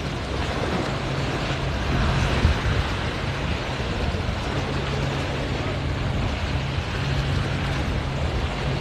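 A steady low engine hum that fades in and out, under a constant rush of wind and water noise.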